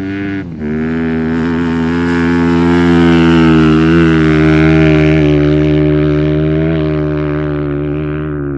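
Motorcycle engine running at fairly steady revs, with a brief dip about half a second in; the sound swells louder toward the middle and eases off near the end.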